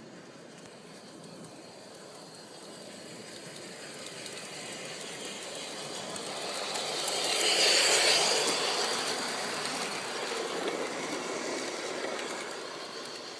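A G-gauge model train running along garden track, growing louder to a peak about eight seconds in and then fading as it goes past and away.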